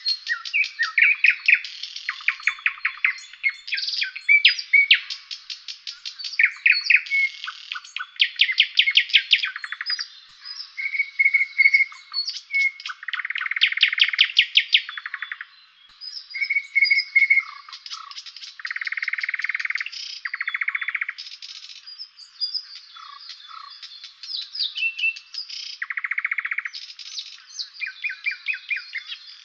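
Songbirds singing without a break, in a dense run of rapid trills, quick series of repeated notes and short whistled phrases.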